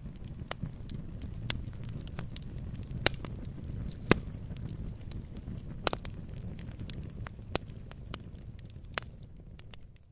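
Campfire burning with a steady low rumble and scattered sharp crackles and pops, the loudest about four seconds in. It fades down at the very end.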